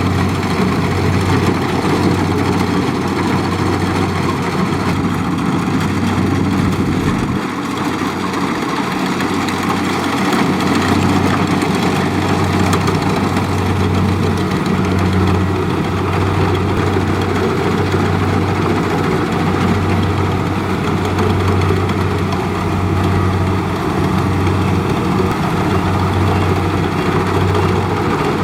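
Kubota DC70 Plus combine harvester's diesel engine and machinery running steadily, with a strong, evenly pulsing low hum and a brief drop in the low end about seven seconds in.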